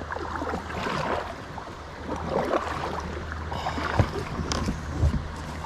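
Water splashing and sloshing around a kayak, with two dull knocks on the hull about four and five seconds in.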